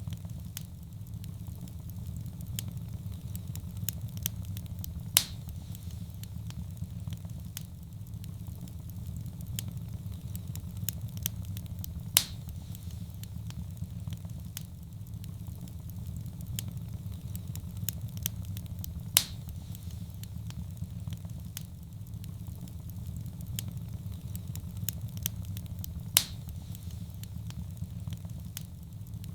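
Wood fire burning in a fireplace: a steady low rumble of flame with constant light crackling and a few louder pops about every seven seconds.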